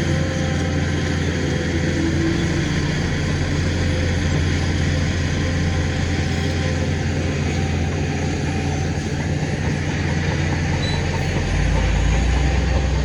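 Heavy diesel earthmoving machinery running steadily, its engine drone continuous, growing louder and deeper about eleven seconds in.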